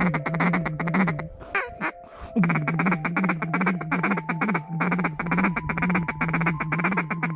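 Duck quacking in a fast, unbroken run of many quacks a second, with a short break about two seconds in.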